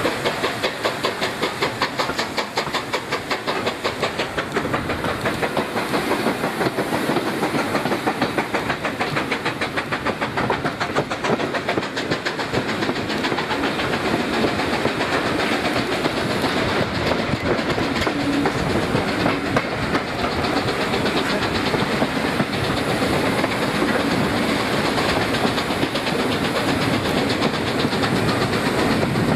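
Steam train running along the line: a fast, steady rhythmic clatter of wheels on the track, with steam hiss.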